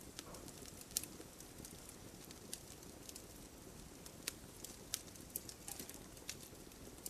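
Wood fire burning steadily, with irregular sharp crackles and pops over a low hiss; the loudest pop comes about a second in.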